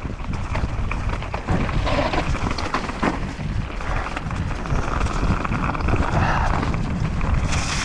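Mountain bike riding down a rough dirt trail: tyres on dirt and rock with the bike clattering over bumps, and a constant low rumble of wind on the microphone.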